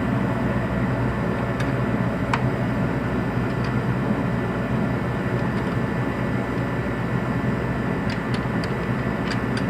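A steady low mechanical hum, with a few faint light clicks, most of them near the end.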